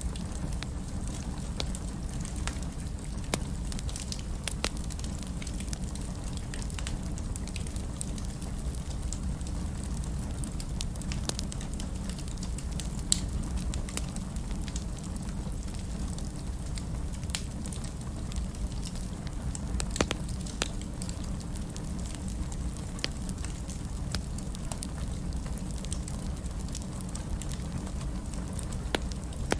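Fireplace fire crackling: many scattered sharp pops and snaps over a steady low rumble of the flames, with a few louder pops now and then.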